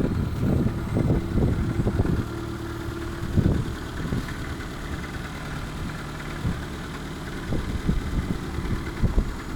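ZAZ Sens 1.3 engine idling steadily, with irregular low thumps scattered over it, most of them in the first half.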